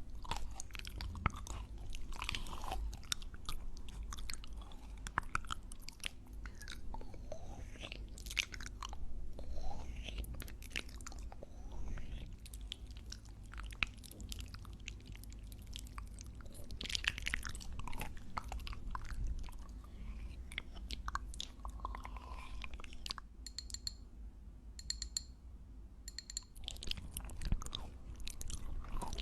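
Close-miked chewing of popping boba: a steady run of small wet pops, squelches and crunches from the mouth, irregular and dense.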